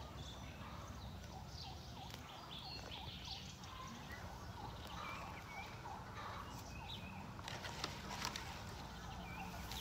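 Birds calling in short chirps scattered throughout, over a low steady background rumble, with a few sharp clicks near the end.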